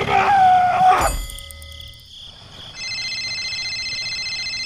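Added sound effects: a brief wavering tone, a thump about a second in, then a steady, rapidly pulsing high tone that runs through the second half.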